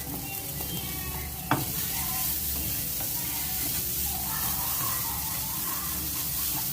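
Onion and spice masala frying in sunflower oil in a pan, sizzling steadily while it is stirred, with one sharp knock about one and a half seconds in.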